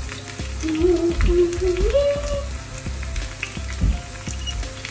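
Sliced onions and ginger-garlic paste frying and sizzling in a wok. A short pitched sound glides upward in pitch about one to two seconds in.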